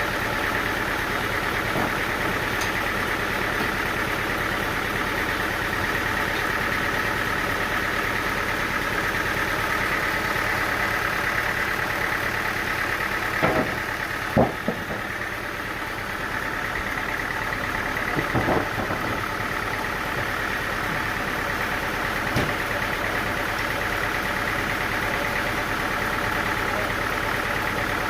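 Engine-driven sawmill machinery running steadily, with a few short knocks, two near the middle and two more a few seconds later.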